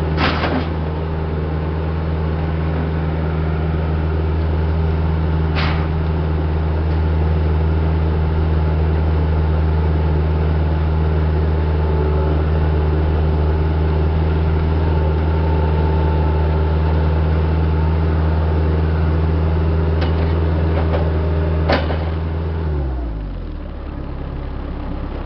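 A heavy-equipment diesel engine runs at a steady speed, with a few sharp knocks. About 23 seconds in it winds down and stops as it is shut off.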